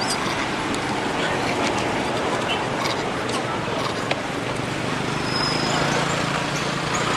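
Steady outdoor background noise, an even hiss-like rumble typical of distant road traffic, with a faint low hum that comes in about five seconds in.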